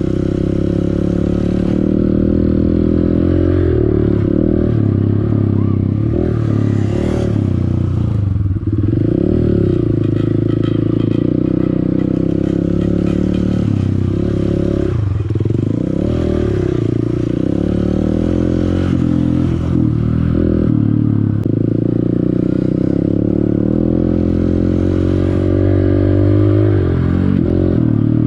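Honda CRF150L's single-cylinder four-stroke dirt-bike engine running under changing throttle on a trail. Its pitch drops and climbs back several times as the rider rolls off and on the gas, most clearly about a third of the way in, around the middle, and near the end.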